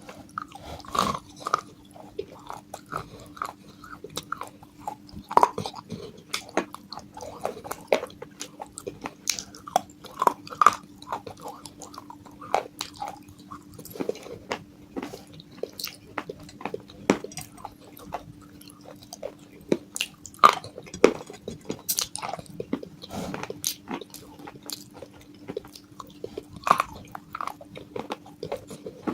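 Close-up biting and chewing of hard, brittle pieces of broken baked clay pot: irregular sharp crunches, one after another, over a faint steady hum.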